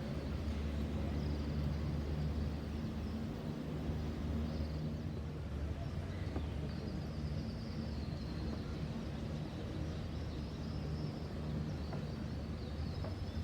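Steady low engine or machinery drone, with faint high bird chirps over it.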